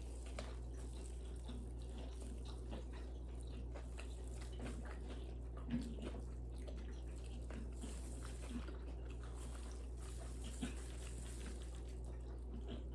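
Close-miked chewing and biting of food, soft wet mouth sounds and small smacks at irregular intervals, the sharpest about six seconds in, over a steady low hum.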